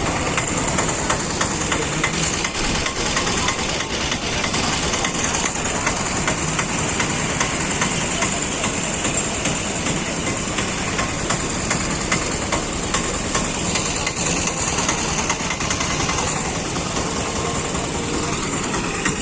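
Floodwater of a swollen river rushing and pouring at a bridge: a loud, steady, dense rush of water with fine crackle throughout.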